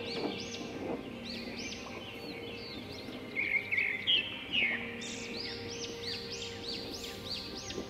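Small birds chirping in quick series of repeated arched notes, with a few louder, sharper chirps around the middle.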